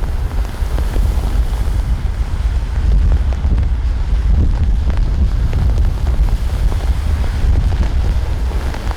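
Wind blowing across the microphone: a loud, steady rumble with a hiss above it.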